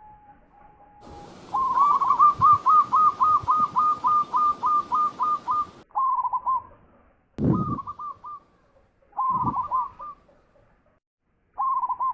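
Zebra dove (perkutut) cooing: a long run of about fifteen quick, evenly repeated notes, then four short bursts of the same notes. Two low thuds come among the later bursts.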